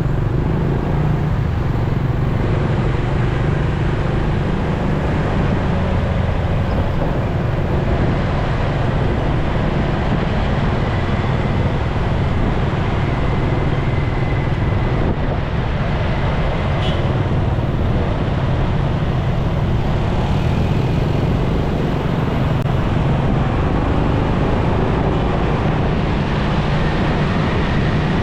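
Motorcycle engine running steadily while riding through traffic, mixed with road and wind noise.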